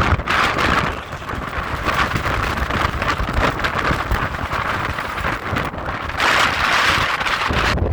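Strong wind rushing and buffeting the microphone in gusts, swelling and easing, with the strongest gusts about a second in and again near the end.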